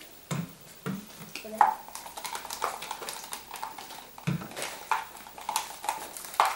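Utensils clinking, tapping and scraping against bowls as slime ingredients are stirred: an irregular run of sharp clicks with a few duller knocks.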